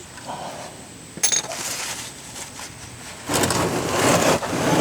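A single sharp metallic clink about a second in, then from about three seconds in a louder rushing of wind on the microphone.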